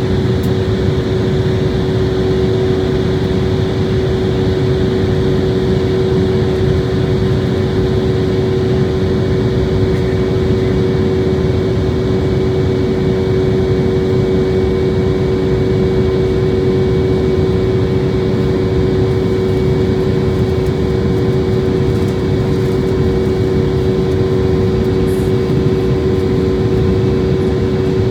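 Steady jet engine drone and air noise inside the passenger cabin of an Embraer jet airliner, with a constant hum tone over the rushing noise.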